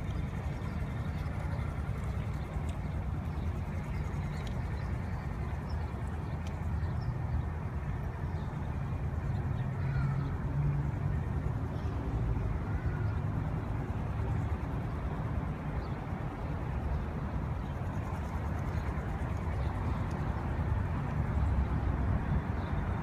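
Honda Grom (MSX125) motorcycle's small single-cylinder engine running at low, fairly steady speed over a continuous low rumble.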